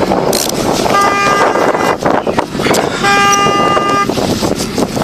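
A vehicle horn sounding in repeated blasts, one short and then another about a second long, each a single steady pitch, over a continuous noisy background.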